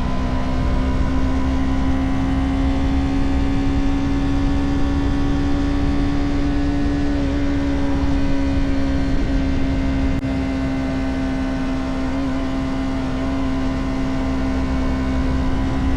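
Motorcycle engine running at a steady cruise, one even engine note over a rumble and rushing noise; the note sags a little about seven seconds in and the sound eases slightly about ten seconds in, as if the throttle is backed off.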